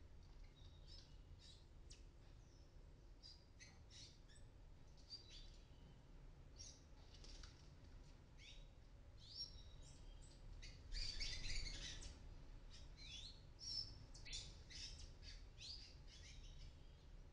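Palm tanagers calling: a faint, scattered run of short high chirps, some sliding upward, with a louder burst of rapid twittering about eleven seconds in.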